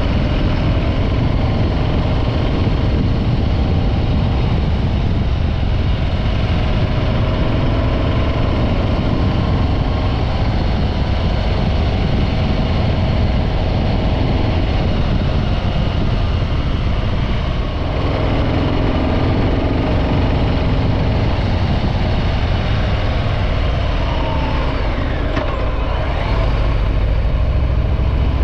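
Harley-Davidson Breakout 114's Milwaukee-Eight 114 V-twin with stock exhaust, running steadily under way. The level dips briefly about two-thirds of the way through, and the engine note shifts in pitch a few times near the end.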